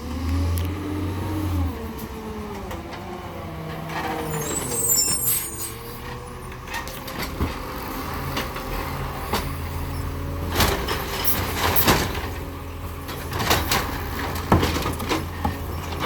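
Garbage truck's diesel engine running, with a whine that rises and falls in pitch over the first few seconds and a brief high squeal about five seconds in. After that comes a string of sharp clanks and bangs over the running engine.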